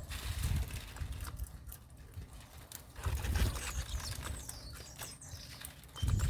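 Birds chirping in short high sweeping notes, over scattered clicks and repeated low thumps and rumbles.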